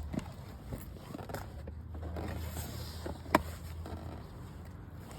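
Car cabin rumble while driving, with scattered clicks and rustles and one sharp click a little over three seconds in.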